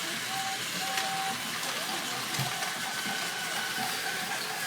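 A steady, even hiss, with two short flat tones about half a second and a second in, and a fainter flat tone through the middle.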